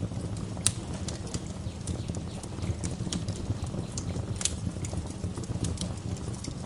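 Wood fire crackling in a fireplace: irregular sharp pops and snaps over a steady low rumble, with the loudest pops about a second in and again just past the middle.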